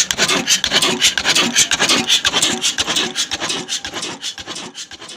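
Old 18 HP diesel engine running a wood-cutting saw machine: a rasping noise with a quick, even beat of about six pulses a second, fading out near the end.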